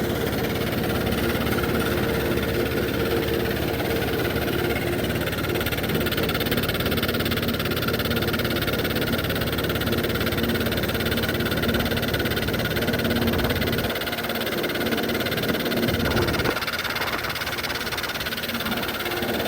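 Old Zetor tractor's diesel engine running steadily, with an even, rapid firing beat.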